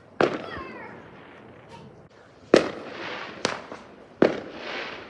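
Fireworks going off: four sharp bangs, the loudest about two and a half seconds in, each trailing off in an echo, with a smaller crack between the last two and a brief crackle after the final bang.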